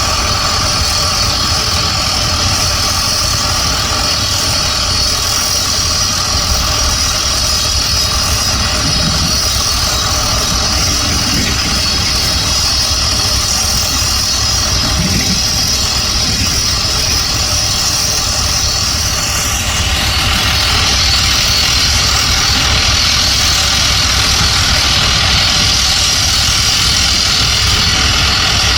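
Heavy diesel engine idling steadily. It grows slightly louder with added hiss about two-thirds of the way through.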